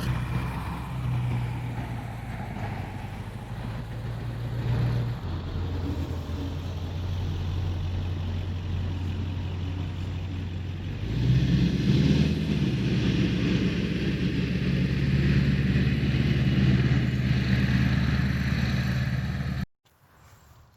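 Car engine running steadily, its pitch shifting about five seconds in and rising in a brief, louder rev about eleven seconds in; the sound cuts off suddenly near the end.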